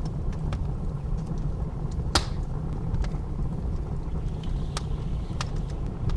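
Wood fire crackling in a fireplace, scattered sharp pops with one loudest snap about two seconds in, over the steady low rumble of blizzard wind.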